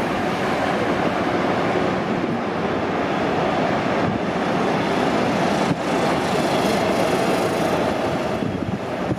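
Regional Express train of red double-deck coaches hauled by a DB electric locomotive, rolling past on the track with a steady running noise from wheels and rails.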